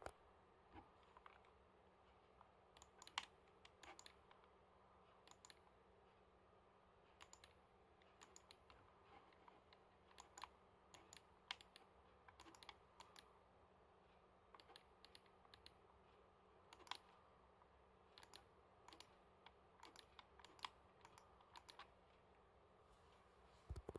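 Typing on a computer keyboard: slow, irregular keystrokes, single clicks and small clusters with short pauses between them.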